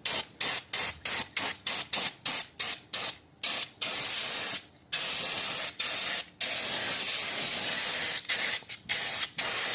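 Aerosol can of brake cleaner spraying with a hiss. It gives many quick squirts, about three or four a second, then a few long sprays of a second or more, then short squirts again near the end.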